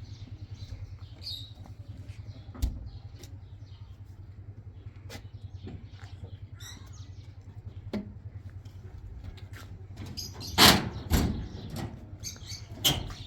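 A motor running steadily with a low throb, with light knocks scattered throughout and a few loud bangs near the end.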